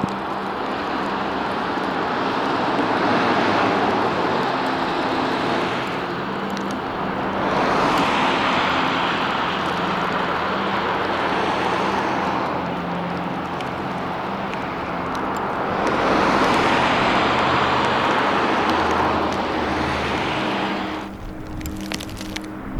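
Outdoor ambience in a winter storm: a rushing noise swells and fades three times over a steady low hum, then drops away near the end.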